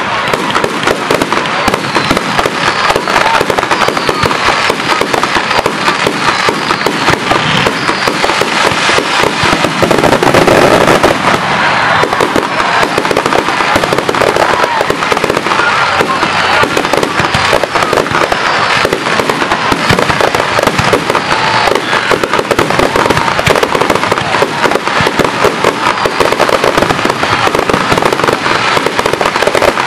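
Aerial fireworks display: a rapid, unbroken barrage of shell bursts, booms and crackling, getting a little louder about ten seconds in.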